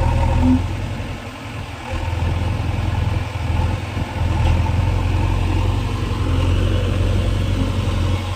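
Diesel engine of a JCB backhoe loader running under load while it works. Its level dips briefly about a second in and picks up again about two seconds in.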